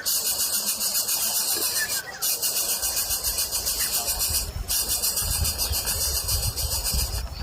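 Dense, high-pitched buzzing hiss that pulses rapidly, like a chorus of insects, with a few faint short chirps. A low rumble comes in about three seconds in.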